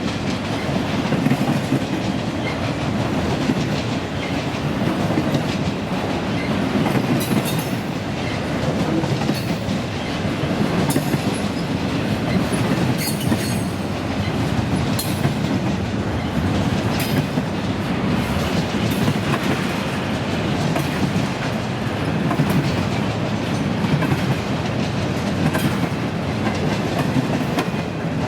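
Freight train cars rolling past at steady speed, a continuous rumble with frequent sharp wheel clacks over the rail crossings and joints.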